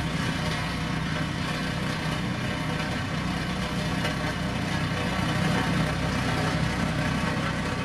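Diesel engine of a heavy road-building machine running steadily at a constant speed.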